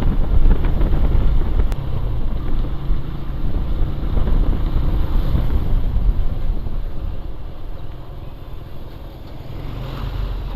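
Wind buffeting a helmet-mounted microphone on a moving motorcycle, with the bike's engine running underneath. The wind noise eases toward the end as the bike slows.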